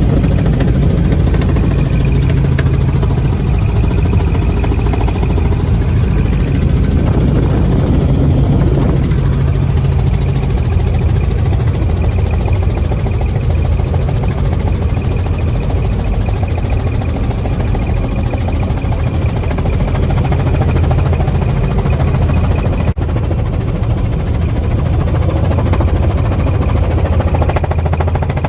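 Helicopter in flight heard from inside the cabin: a loud, steady engine and rotor drone with a faint high whine above it.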